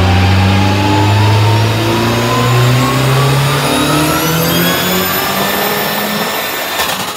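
Turbocharged VW AP 2.0 inline-four running a full-load pull on a chassis dynamometer. The engine note rises steadily in pitch with a high whine climbing above it, then stops abruptly near the end.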